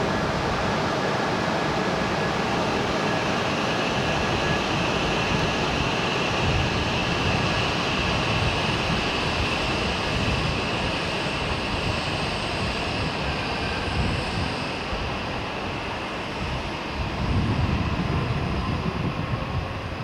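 E6-series Shinkansen train coupled to an E5 set, making a steady running hiss with a high whine. The whine is strongest from about 3 to 13 seconds in, and heavier low rumbles come near the end.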